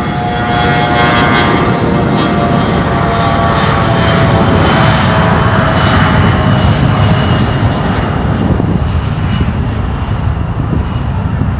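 Airplane engine noise, loud and steady, with several whining tones that drift slightly lower, easing off a little near the end.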